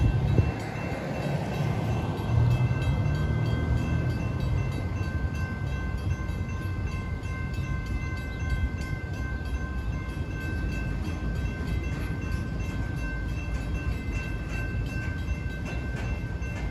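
Freight train of covered hoppers and tank cars rolling slowly through a grade crossing, with a steady low rumble of wheels on rail. The crossing signal's bell rings steadily over it.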